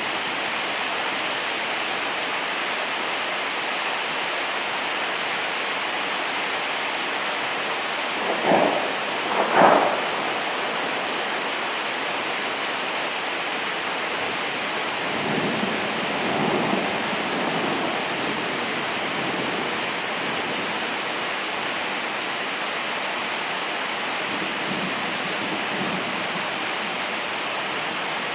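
Steady rain falling, with thunder: two short, louder rumbles about a third of the way in, then a softer rolling rumble a little past halfway.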